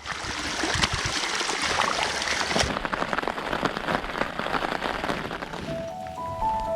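Heavy rain pattering on a surface, with many sharp close drop impacts; the sound turns duller a little under halfway through. Near the end the rain fades out and music with a simple melody comes in.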